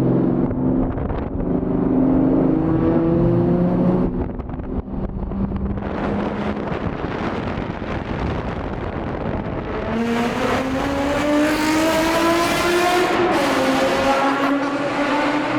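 Nissan 350Z's V6 through a Tomei exhaust, accelerating hard: the pitch climbs with the revs, drops briefly at a gear change about 13 seconds in, then climbs again.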